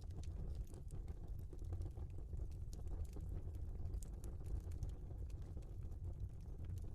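Wood logs burning in a fireplace, crackling with many small, irregular pops and snaps over a steady low rumble.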